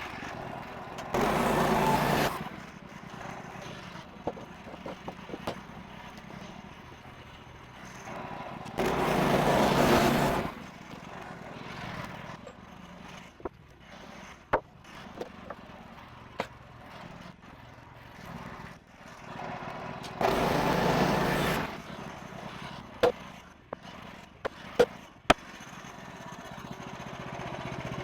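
Bandsaw mill with a 14 HP Kohler engine running, broken by three loud bursts of about a second and a half each. Scattered sharp knocks and clicks in between, several close together near the end.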